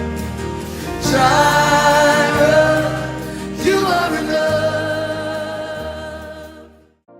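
Gospel worship song: a singer holds and bends long notes over sustained chords and bass. The music fades out near the end.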